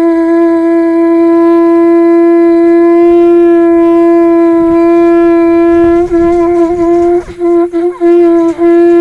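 A horn or wind instrument blown in one long, loud, steady note. About six seconds in, the note wavers and breaks off several times before it steadies again.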